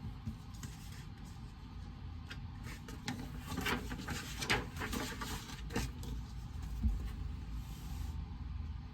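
Steady low room hum with small desk-handling noises over it: a run of light rustles and clicks from about three to six seconds in, then a soft thump a little later.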